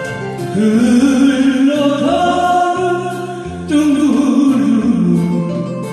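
A solo voice singing a Korean trot song over an instrumental backing track, the vocal coming in about half a second in and running in two phrases.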